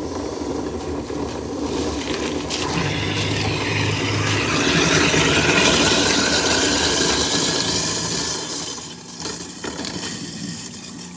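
Kitchen garbage disposal running and grinding ice, with tap water pouring into it: an ice-scouring cleaning of the grinder. The sound grows louder through the middle and eases off toward the end.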